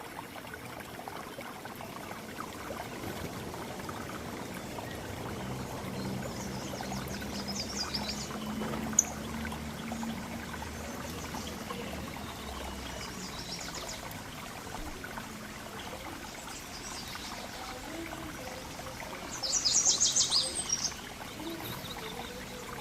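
Small birds chirping in short high bursts over a steady trickle of running water; the loudest is a quick run of chirps near the end.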